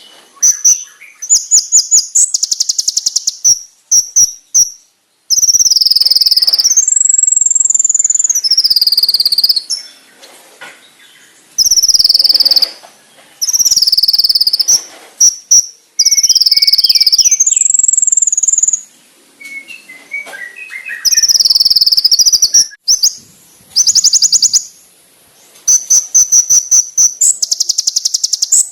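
Konin sunbird song: loud, high-pitched rapid trills and rattling phrases alternate with long whistled notes that sweep up and back down, separated by short pauses.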